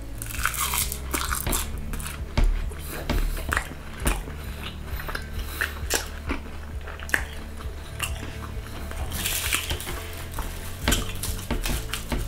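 Close-up eating sounds of a nori-wrapped salmon bite: a crisp crunching bite near the start, then chewing with small clicks and smacks, and another crunchy burst of chewing later on.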